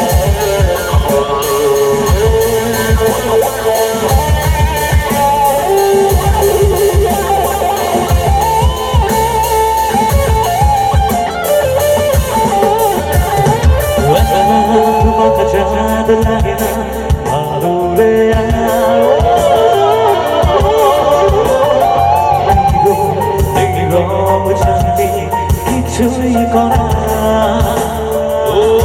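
Live band playing a Bollywood song through a PA system, loud and continuous: a steady drum and bass beat under a melody line.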